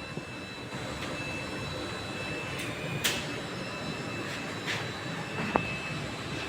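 TIG welding setup running with a steady hiss and hum under a faint high whine, with a few sharp clicks in the second half.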